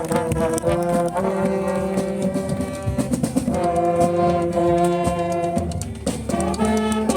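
Brass instruments, trombone-like, playing a tune in long held notes that change every second or two.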